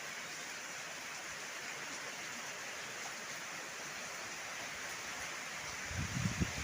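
Heavy rain falling, a steady even hiss. Near the end, strong wind begins gusting, with low buffeting.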